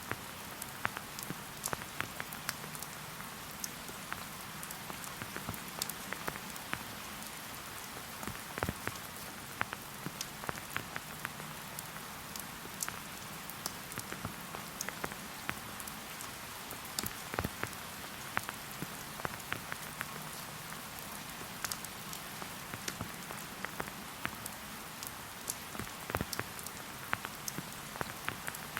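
Steady rain falling in a forest, an even hiss with many separate drops ticking close by.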